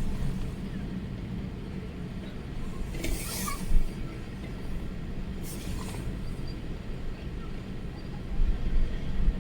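Strong storm wind buffeting the microphone: a steady low rumble with gusts that thump about four seconds in and again near the end. Two brief hissing swooshes come through, one about three seconds in and one about five and a half seconds in.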